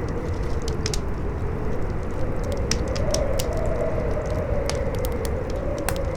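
Campfire crackling with sharp, irregular pops over strong howling wind, the wind's whistle wavering up and down in pitch.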